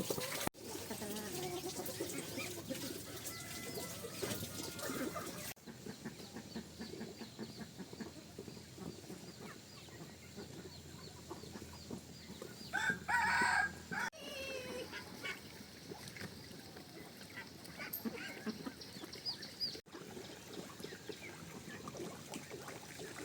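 Chickens clucking, with a rooster crowing once, loudly, a little past halfway through.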